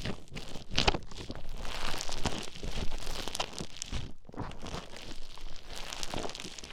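Play Foam, the beaded modelling compound, being mixed and squished right at the microphone, giving a dense, irregular crunching and crackling with scattered sharp clicks.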